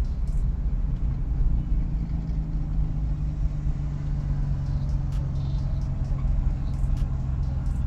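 Car engine running with road noise: a steady low rumble, with a steady hum that settles in about two seconds in.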